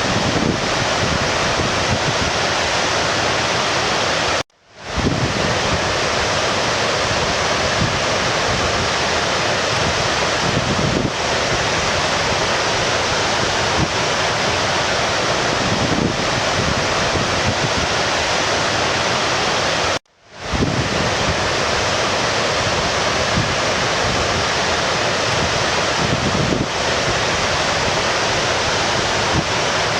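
Steady rushing water of a stream. Twice, about four seconds in and again about twenty seconds in, it cuts out almost completely for a moment and then swells back in.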